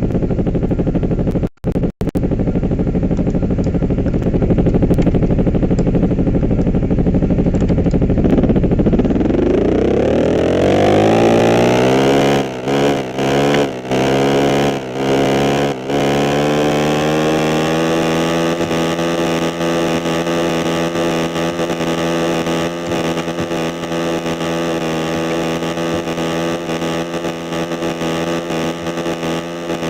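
Motorcycle engine: a low rumble at first, then the engine note climbs steadily in pitch as the bike accelerates, with a few brief drops in level, and settles into a steady drone at constant speed.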